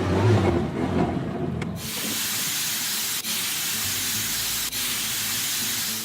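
A rustling, clattering noise for about two seconds, then a steady, even hiss with two brief breaks that stops near the end.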